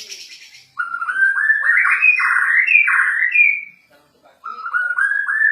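Bornean white-rumped shama (murai batu) singing in full, excited song: a fading fast trill, then two loud phrases of rising, stepped whistled notes split by a short pause.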